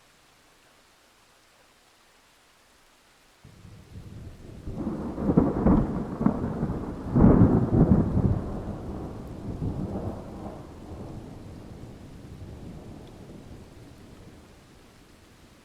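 A thunderclap rolling over steady rain: a low rumble starts suddenly about three seconds in, swells to two loud peaks, then slowly dies away.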